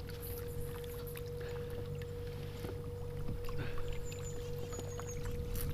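Small boat motor running steadily under way, a constant whine over a low hum, with faint water splashing.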